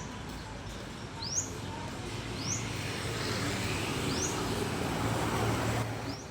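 A bird chirping repeatedly, short rising chirps one every second or two, over a steady hum of outdoor traffic noise.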